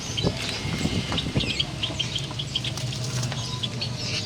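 Birds chirping in a quick run of short, high notes, with a few lower calls about a second in and a steady low hum underneath.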